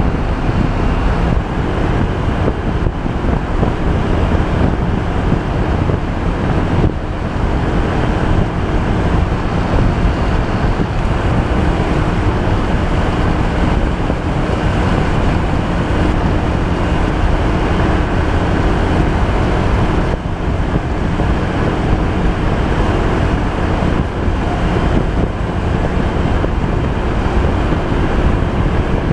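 Steady rush of wind noise on the microphone while riding, with the low hum of a Honda PCX 125 scooter engine running evenly beneath it.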